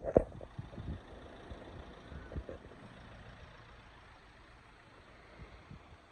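A road vehicle passing, with a sharp thump near the start and a few lighter knocks, then a low rumble that slowly dies away.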